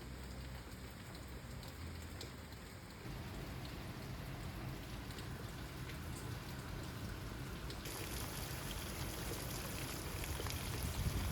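Steady rain falling, with scattered drops ticking; it gets abruptly heavier about three seconds in and again near the end.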